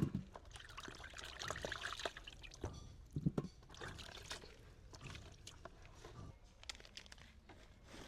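Water being poured and trickling, strongest in the first couple of seconds, with scattered light knocks.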